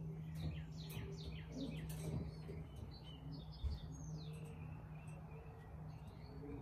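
Birds chirping with quick high calls that sweep downward, a run of them in the first two seconds and more near four seconds, over a steady low hum, with a soft bump just before four seconds.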